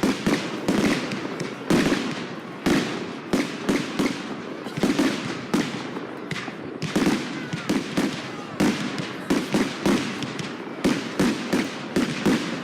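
Fireworks display going off: a rapid, irregular string of sharp bangs, often several in a second, over a steady background of smaller crackles and rumble.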